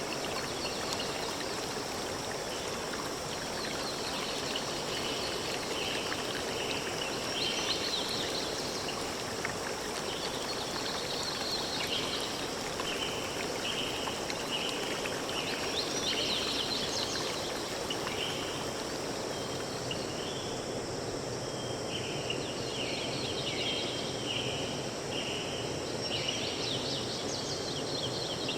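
Steady rush of flowing water, with birds singing over it. One bird repeats a short call in runs of several notes, a little under a second apart.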